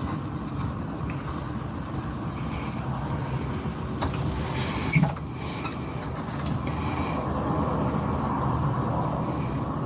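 Truck engine idling steadily with a low rumble, and a single sharp click about halfway through.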